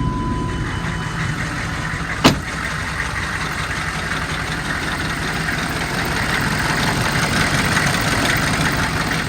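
GM 6.5-litre V8 diesel engine idling steadily, its idle smooth. A single sharp click sounds about two seconds in.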